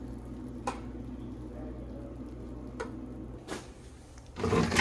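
Steady electric hum from a kitchen appliance that cuts off about three and a half seconds in, with a couple of light clicks, then a loud clunk near the end.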